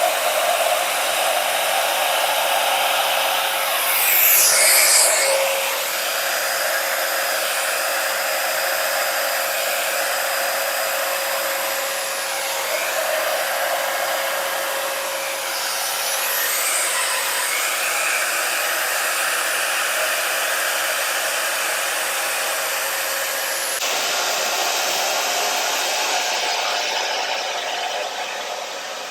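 Small hand-held hair dryer running steadily, blowing wet acrylic paint outward across a canvas, with a faint steady whine under its airflow. The rushing sound swishes as the dryer is swept about, changes character about 24 seconds in, and fades near the end.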